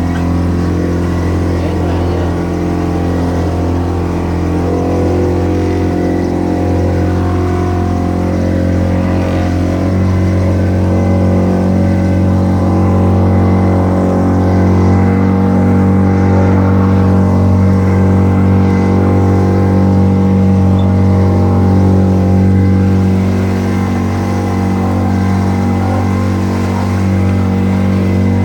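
Speedboat engine running steadily at speed, a loud drone whose pitch shifts slightly upward about ten seconds in.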